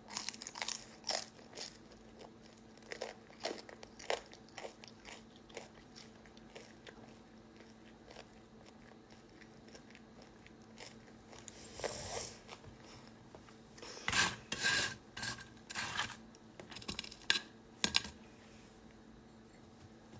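A person chewing and crunching food close to the microphone, in irregular wet clicks and crackles. There is a louder run of crunches near the end.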